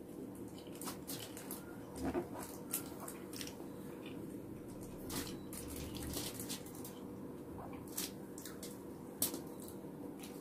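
Close-up eating sounds: quiet chewing with scattered short wet clicks and lip smacks, a second or more apart, and fingers picking up rice and food, over a faint steady hum.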